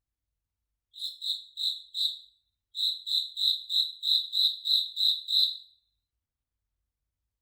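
A cricket chirping: four chirps, a short pause, then nine more at about three a second before it stops, with no other sound behind it.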